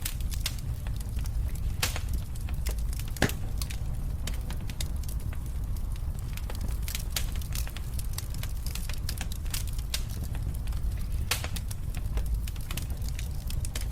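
Wood fire crackling in a fireplace: irregular sharp pops and snaps over a low, steady rumble of burning, with one louder snap about three seconds in.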